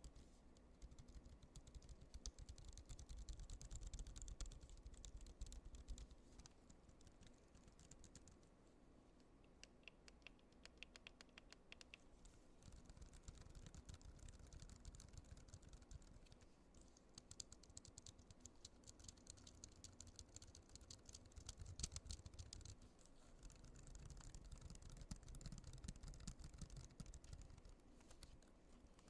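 Soft, rapid clicking of small buttons being pressed over and over, much like typing on a keyboard, thinning out for a few seconds in the middle.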